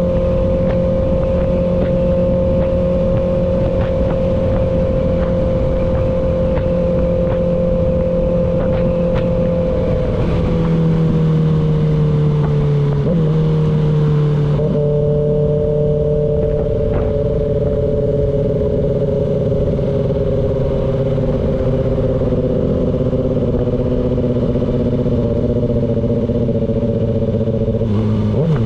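Kawasaki Ninja ZX-6R's inline-four engine running steadily at a cruise. Its pitch eases down a little about a third of the way in, in a couple of small steps, then holds steady at the lower pitch.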